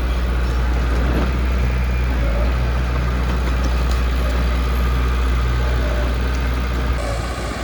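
Engine of a heavy construction machine running steadily, with a low, even hum.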